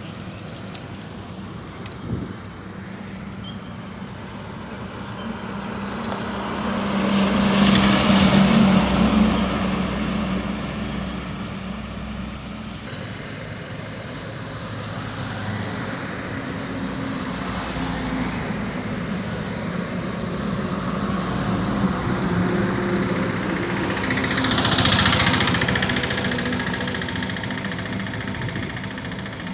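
Heavy trucks passing on a highway: two pass-bys, one about eight seconds in and a louder-sounding, sharper one near twenty-five seconds, each rising and fading with engine drone and tyre noise over steady traffic.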